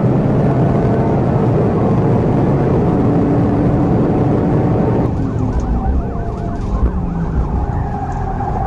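Police car siren wailing over heavy road and engine noise during a high-speed pursuit. About five seconds in, the sound changes abruptly to a fast, rapidly repeating yelp.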